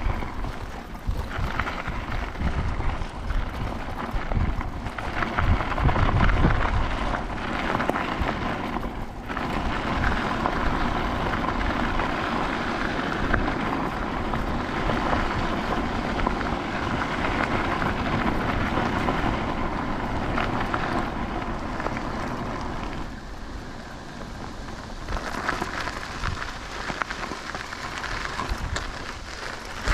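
Wind and rolling road noise from riding an electric bike, with uneven low gusts buffeting the action-camera microphone.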